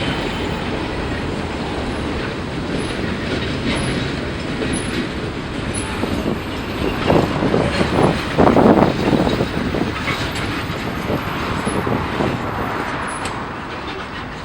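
Freight cars rolling through a rail yard during switching: a steady rumble, with a louder run of knocks about seven to nine seconds in.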